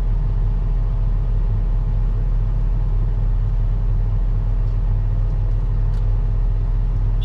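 Old Massey Ferguson tractor's engine running steadily, a continuous low rumble with an even drone above it.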